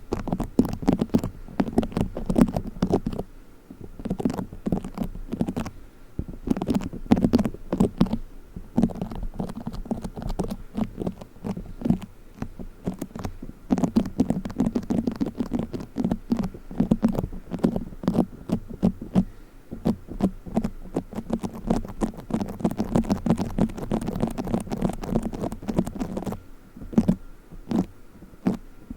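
Play foam, made of tiny foam beads, being squeezed and kneaded close to the microphone: a dense crackling and squishing that comes in stretches with short lulls between them.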